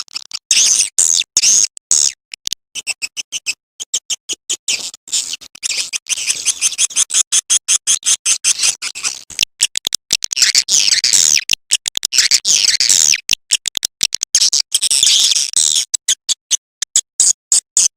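Swiftlet call recording used to lure swiftlets into a nest house: dense, high, rapid twittering and chirping, cut into many short bursts with brief gaps between them.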